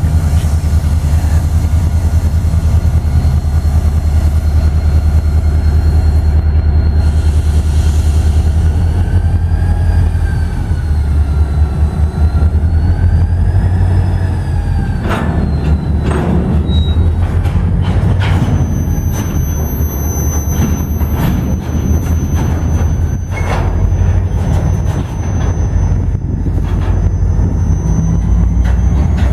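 Freight train of covered hopper cars rolling slowly past, with a steady low rumble. Wheel flanges squeal in a wavering tone through the middle, the wheels knock and clack over rail joints several times in the second half, and a thin high whine runs through the last third.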